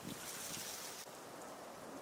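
Steady rain falling. In the first second there is a louder, higher hiss with a low thump, and it cuts off suddenly about a second in.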